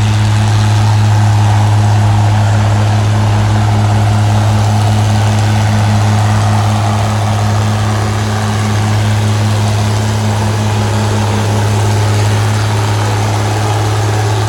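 Antique farm tractor engine running at a steady speed: a loud, constant low drone with a faint regular throb.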